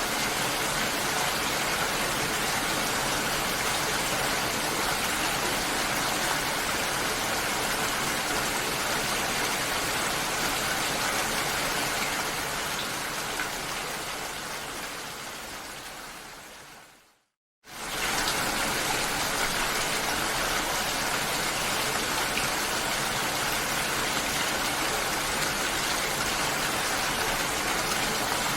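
Steady rain falling as an even hiss. It fades away over several seconds past the middle, is silent for a moment, then starts again suddenly at full strength.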